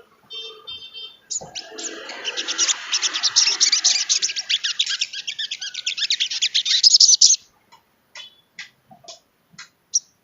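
Sogon trotol songbird in full song: a few short high trills, then a fast, loud, unbroken run of chattering notes for about six seconds, breaking off into separate sharp single chirps near the end.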